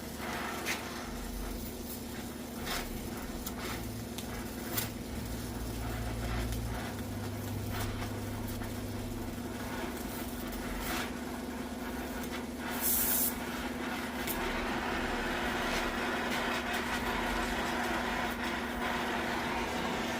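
Workshop sounds with the car's engine off: a steady hum, scattered clinks and knocks of tools, and a short burst of hissing air about 13 seconds in.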